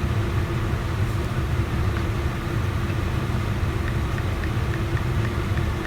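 Steady low mechanical hum of a running machine in the background, even throughout with a faint steady tone above the low drone.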